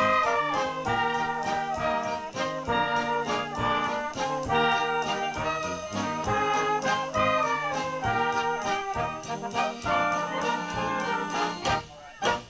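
Brass band music with a steady beat, horns carrying the tune. It cuts off abruptly near the end.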